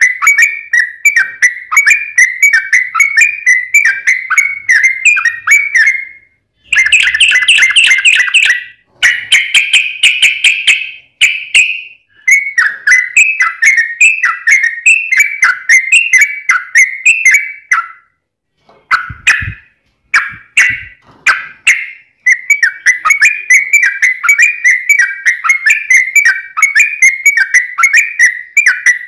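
Yellow-vented bulbul song: long runs of rapid, bubbly chattering notes repeated many times a second, broken by a few short pauses.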